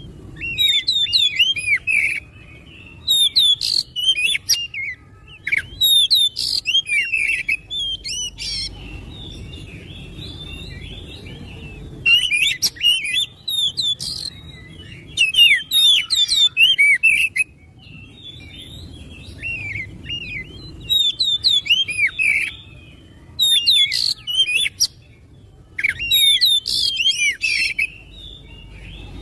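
Oriental magpie-robin (kacer) singing in repeated bursts of fast, varied whistles and chirps, separated by short pauses.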